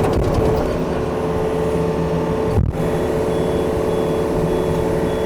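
Diesel engine of a Yanmar compact excavator running steadily, with its travel alarm beeping at an even rate from a little past halfway as the machine moves.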